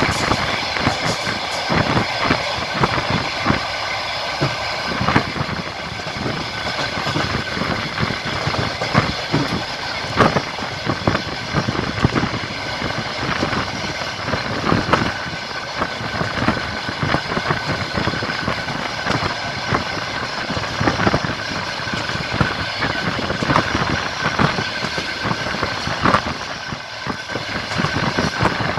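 Passenger train running along the line, its wheels clattering on the rails in a continual, uneven stream of knocks, over a steady hum of running noise, heard from inside the carriage at the window.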